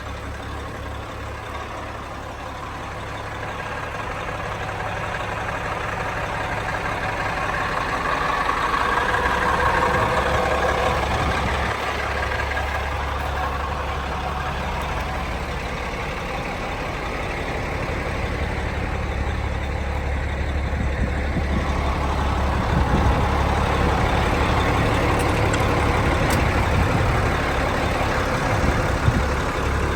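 A dump truck's Caterpillar diesel engine idling steadily, with a steady low hum, growing louder about ten seconds in, easing off, then louder again in the last third.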